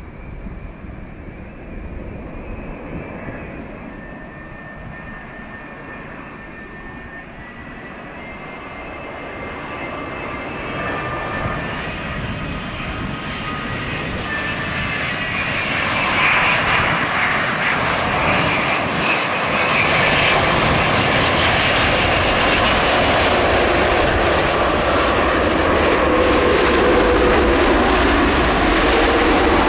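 Airbus A330-900neo airliner on approach, its Rolls-Royce Trent 7000 jet engines whining over a low rumble that grows steadily louder as it comes nearer, reaching its loudest from about halfway through.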